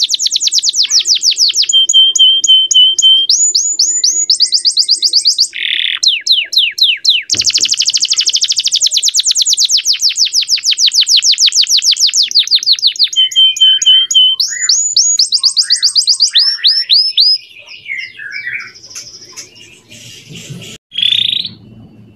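Male domestic canary singing a long run of fast trills: each train of rapidly repeated notes gives way to the next at a different pitch, with two short held steady notes. The song stops about 17 s in, leaving a few fainter scattered chirps and a brief rasp near the end.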